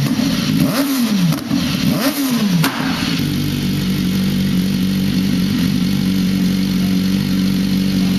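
BMW S1000RR inline-four with a decat pipe and the stock end can, revved in three quick throttle blips that rise and fall about once a second, then settling to a steady idle about three seconds in.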